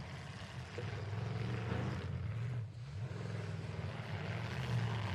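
Demolition derby truck engines running and revving unevenly, a low wavering drone over a wash of arena noise, easing off briefly about halfway through.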